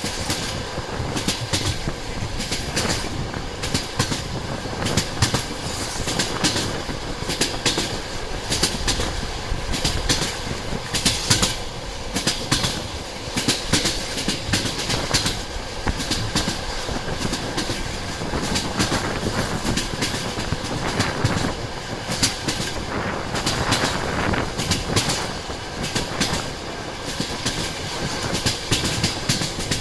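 Train running along the track, its wheels clattering over the rail joints in a continuous irregular clacking.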